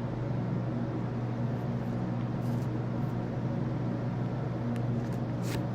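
Steady hum and whoosh of a room heating and cooling fan running, even throughout, with a single short click near the end.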